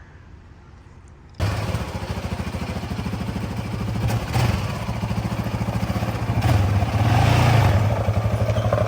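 Dirt bike engine running with a rapid, even firing pulse. It comes in suddenly about a second and a half in and grows louder toward the end, as if revved a little.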